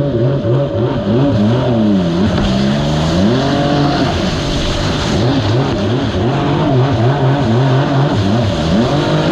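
A jet ski engine running under throttle, its pitch rising and falling again and again as the throttle is opened and eased off.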